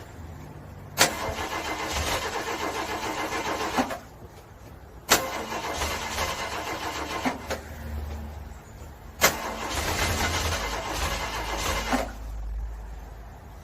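A car's starter cranking a cold engine in three separate attempts of about two to three seconds each, each opening with a sharp click as the starter engages, with the rapid, even pulsing of cranking and short pauses between tries: a cold engine struggling to start.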